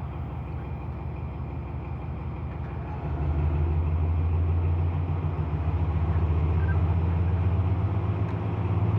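Class 70 locomotive's V16 diesel engine running with a low, pulsing throb, stepping up and growing louder about three seconds in.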